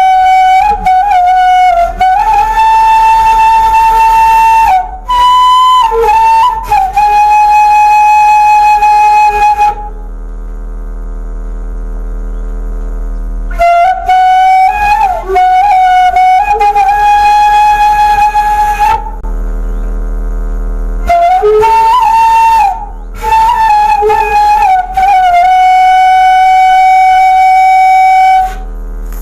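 Bamboo suling flute played by a beginner: three short phrases, each settling into a long held note, with pauses between them. A steady low hum runs underneath.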